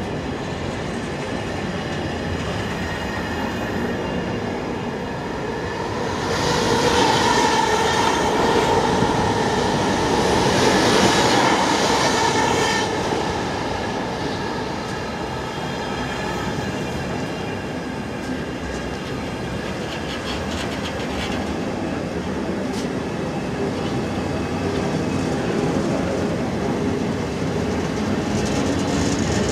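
Container flat wagons of a freight train rolling past close by: a steady rumble and clatter of steel wheels on the rails. From about six to thirteen seconds in it grows louder, with a ringing, squealing tone from the wheels.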